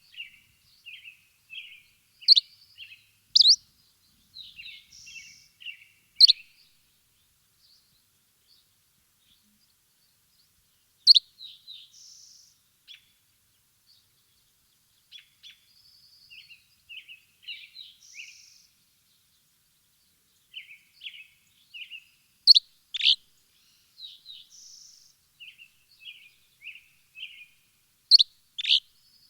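Several birds chirping and twittering in short, high phrases, with a louder sharp call now and then. The calls stop for a few seconds about a third of the way in.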